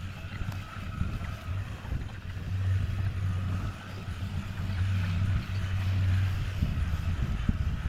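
An engine running steadily with a low hum, swelling a little at times, with some wind noise on the microphone.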